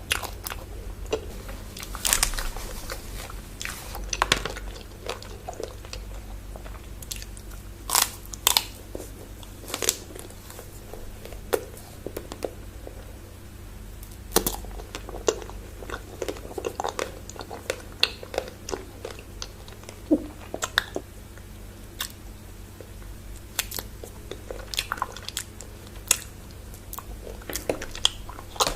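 Close-miked biting and chewing of chocolate bars, with irregular sharp crunches and crackles.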